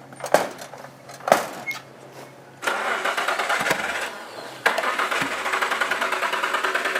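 Two knocks, then a Nissan Pathfinder's starter cranking the engine without it catching: one short try of about a second and a half, a brief pause, then a longer try. The engine has died, and the owner wonders whether it is getting any gas.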